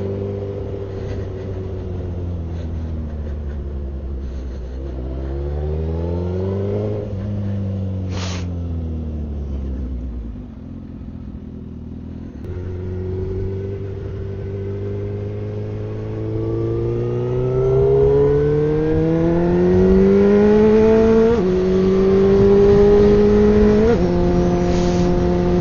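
Suzuki GSX-R1000 inline-four engine on the move. It slows, speeds up briefly, then eases down to a low, quieter run. About halfway through it pulls away with a steadily rising pitch and upshifts twice near the end, each shift a sudden drop in pitch. A single sharp click comes about a third of the way in.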